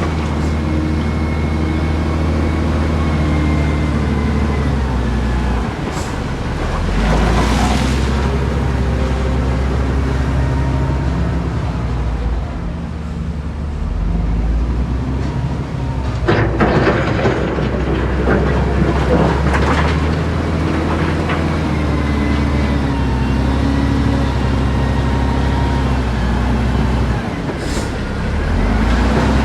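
Diesel engine of heavy earthmoving machinery running, its pitch stepping up and down as it works. There are bursts of scraping and clatter about seven seconds in and again from about sixteen to twenty seconds in.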